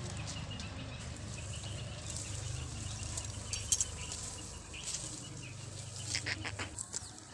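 Birds chirping in the background over a steady low rumble.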